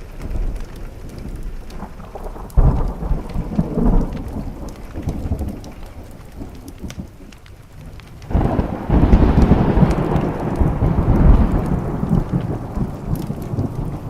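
Thunder rumbling twice over steady rain. The first rumble starts suddenly about two and a half seconds in and fades. The second is longer and louder, starting about eight seconds in and dying away near the end.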